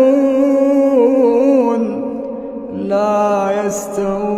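Quran recitation in melodic tajwid style: a single voice draws out a long, ornamented vowel with its pitch wavering, breaks off about two seconds in, then starts a new phrase on a lower note.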